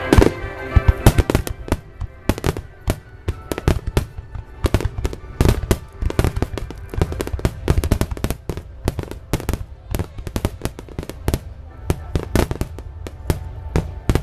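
Aerial fireworks in a rapid finale-style barrage: many sharp bangs and crackles a second, closely overlapping, with no let-up.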